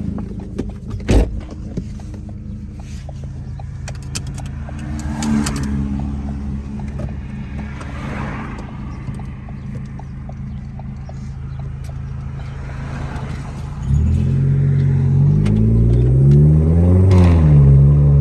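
Car engine running at low revs with a sharp knock about a second in; about fourteen seconds in the engine is given full throttle, its note rising, dropping briefly at a gear change and rising again.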